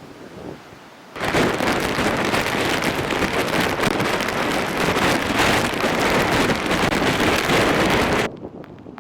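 Typhoon wind and driving rain blowing hard across the microphone, loud and noisy. It starts abruptly about a second in and cuts off just as suddenly near the end.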